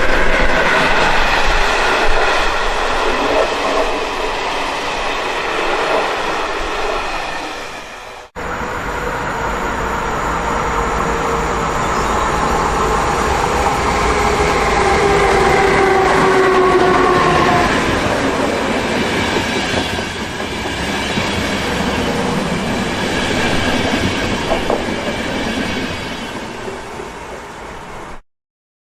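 Trains hauled by Siemens Vectron electric locomotives running past, with wheels clattering on the rails and several whining tones that fall slightly in pitch. About eight seconds in there is an abrupt cut to a second passing train, and the sound cuts off near the end.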